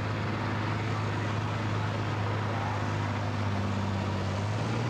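Tractor-pull tractor engine running steadily: a constant low drone over loud, even engine noise.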